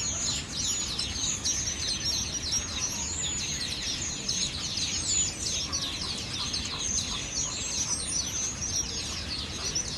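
A dense chorus of many small birds chirping at once: quick, high chirps overlapping without a break.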